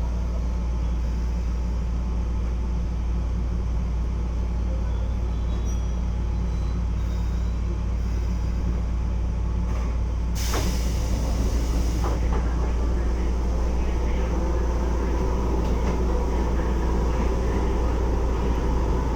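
Interior sound of a Keisei 3400 series chopper-controlled electric train: a steady low hum, cut by a short burst of air hiss about ten seconds in. After the hiss, faint motor tones start up and the sound grows a little louder as the train begins to move.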